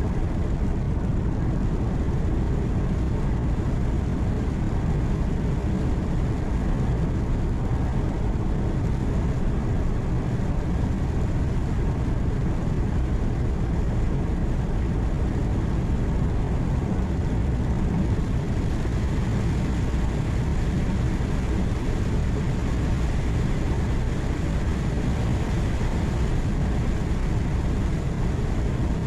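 Steady low drone of a truck's engine and tyre and road noise heard from inside the cab while cruising on the highway.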